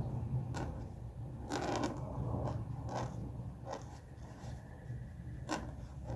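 Dip pen nib scratching across paper in a series of short strokes, with a longer stroke about a second and a half in, over a steady low hum.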